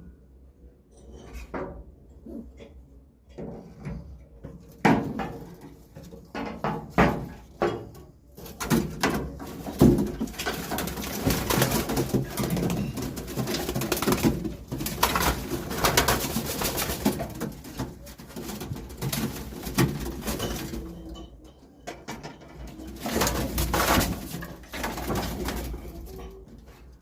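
Domestic pigeons cooing, with frequent short scuffling sounds that are busiest through the middle stretch.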